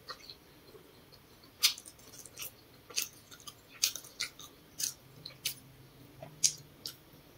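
Close-up mouth sounds of a person chewing grilled potato: about a dozen sharp, irregular clicks and smacks, the loudest about a second and a half in and again near the end.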